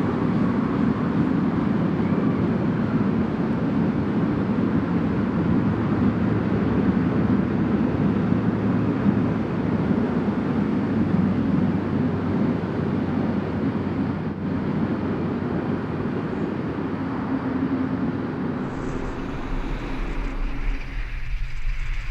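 Passenger carriages of a steam-hauled train rolling past on the track, a steady rumble of wheels on rails. Near the end the rumble gives way to a different, lower steady hum.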